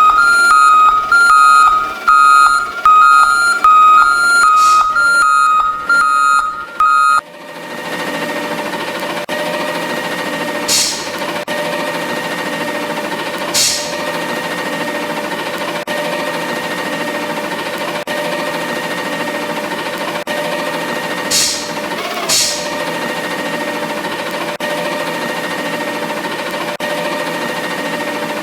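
Garbage truck backup alarm beeping, about two beeps a second, for the first seven seconds. Then the truck runs with a steady mechanical hum, broken four times by short sharp hisses of air.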